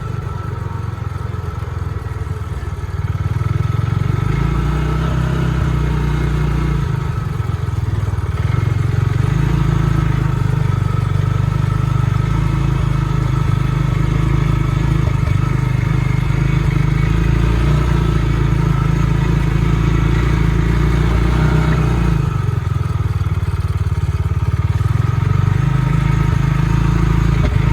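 Bighorn Explorer UTV engine running steadily and picking up about three seconds in. It has a hesitation and a little sputter in its running, which the owner dislikes.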